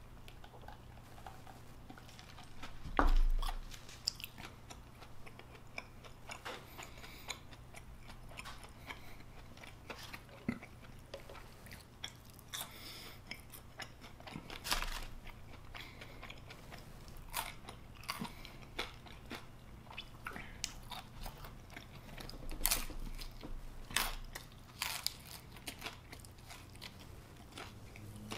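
Close-miked chewing and eating sounds: wet mouth noises and many small scattered clicks and crunches, with one louder thump about three seconds in.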